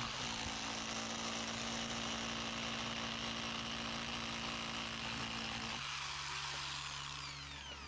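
Corded rotary hammer drill running steadily as it bores through a thick stone wall. About three-quarters of the way through its motor note drops lower, and near the end its pitch falls as it slows.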